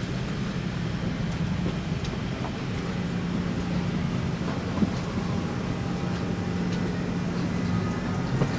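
Steady low mechanical hum and rumble, with a humming tone that holds level throughout and one short click a little under five seconds in.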